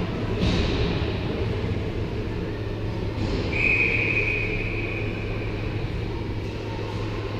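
Ice rink game ambience: a steady low rumble and hum, with one sharp whistle blast about three and a half seconds in, held for about a second and then fading.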